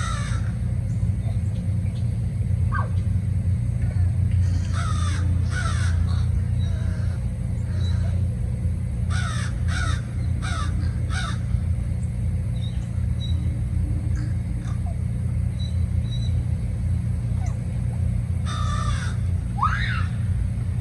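Birds giving harsh, caw-like calls in several short runs, over a steady low rumble.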